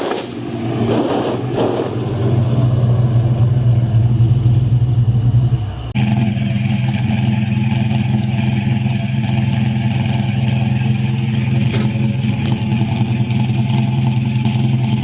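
Car engine running steadily at idle, with an abrupt cut to a second steady engine sound about six seconds in.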